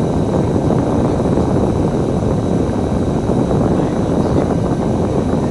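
Bus engine and road noise heard from inside the moving bus: a steady, loud low rumble.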